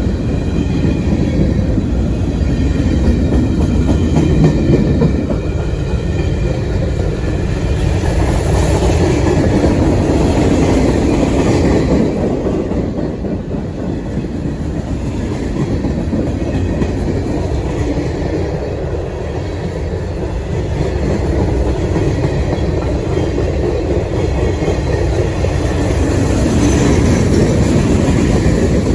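Freight train rolling past steadily, its cars' wheels clacking over the rail joints.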